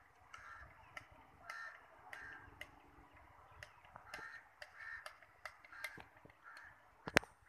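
Short bird calls repeating about once or twice a second, with scattered faint ticks and one sharp click about seven seconds in, the loudest sound.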